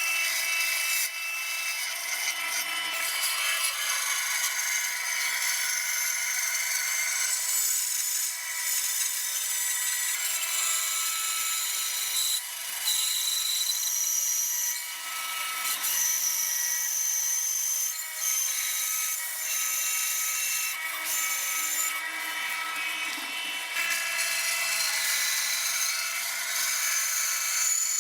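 Bandsaw running and cutting through a thick walnut gunstock blank: a steady machine whine with the hiss of the blade in the wood, dipping briefly a few times.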